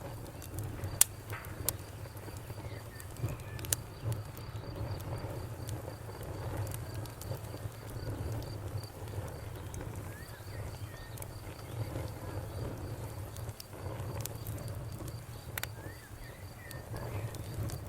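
Wood fire crackling, with a low steady rumble and scattered sharp pops, the loudest about a second in. A high, evenly pulsed cricket chirping runs alongside, pausing briefly near the middle.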